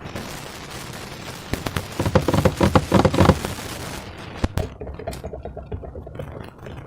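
Slime being squished and worked by hand: a dense run of small wet crackles and pops, busiest and loudest from about two seconds in until past three seconds, followed by a couple of sharper snaps.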